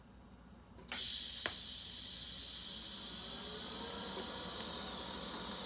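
TIG welding arc struck about a second in with a sharp crack, then a steady hiss with a high whine while a tack is laid joining a cast iron manifold to a stainless steel V-band.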